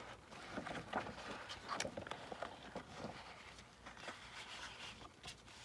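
Faint handling of paper and card: light rustles and small taps as cut-out paper pieces and cardstock are picked up and set down, a few separate ticks spread through.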